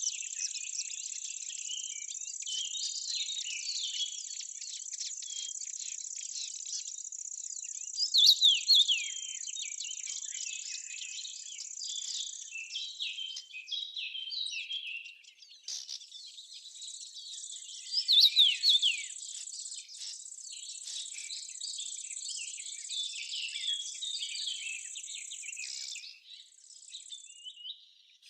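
Outdoor nature ambience: a steady, high insect trill with small birds chirping over it, and a louder burst of bird song twice, about 8 and 18 seconds in. The track drops out briefly twice.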